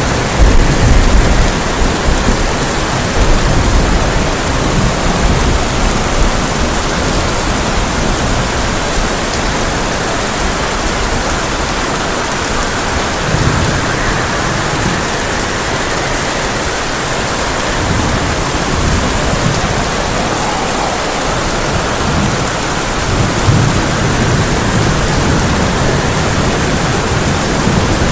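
Heavy rain drumming steadily on a tin roof, with rolls of thunder rumbling low in the first few seconds and twice more later on.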